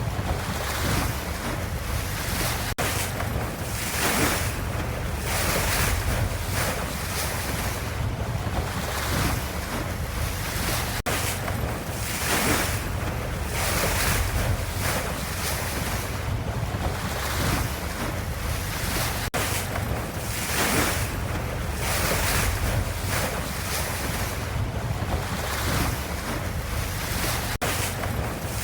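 Ocean waves washing in a continuous wash of water noise with a deep low rumble, swelling and easing every couple of seconds.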